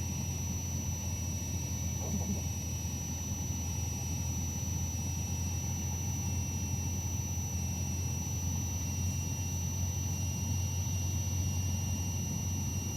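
Cessna 152's four-cylinder Lycoming engine and propeller droning steadily in cruise, heard from inside the cockpit, with a thin steady high whine over it.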